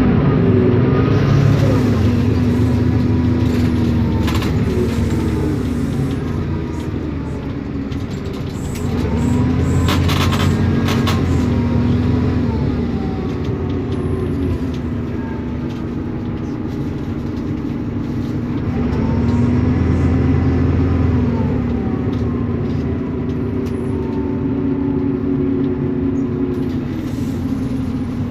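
Isobus City 1200 bus's MAN six-cylinder diesel and ZF Ecomat automatic gearbox heard on the move, the engine and gearbox whine rising and settling three times as the bus pulls away and shifts up. A few brief sharp hissy noises come about ten seconds in.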